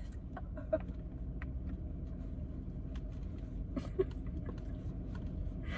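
Steady low rumble with a few faint clicks and taps.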